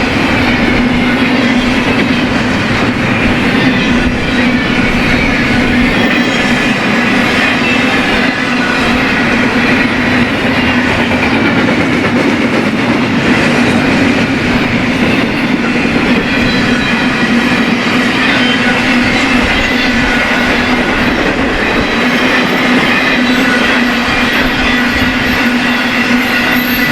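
BNSF freight train cars rolling steadily past, steel wheels running on the rail with a continuous loud rumble and a faint high squeal from the wheels.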